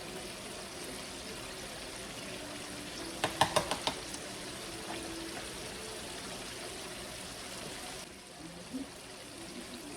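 Pieces of chicken frying in hot oil, with a steady sizzle. A quick run of sharp clicks comes about three seconds in, and the sizzle drops to a lower level about eight seconds in.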